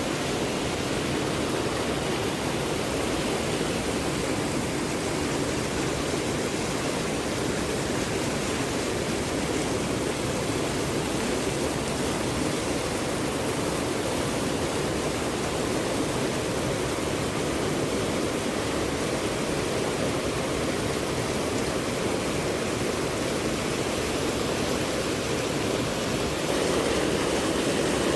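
Steady rushing of flowing water, like a stream or small waterfall, that swells slightly near the end.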